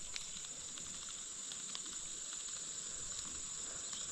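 Steady high-pitched insect chorus, with the soft, even hiss of the flowing creek beneath it.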